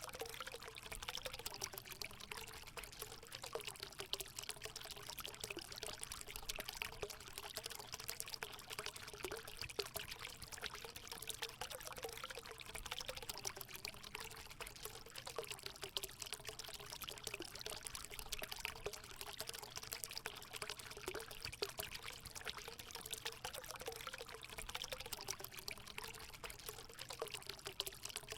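Water running and pouring steadily into a hot spring pool, a continuous splashing trickle with a faint wavering gurgle.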